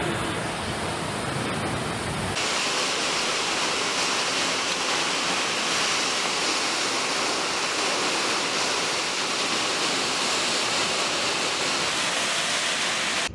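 Rushing floodwater: a steady, loud roar. About two seconds in, the deep rumble drops out, leaving an even hiss of water.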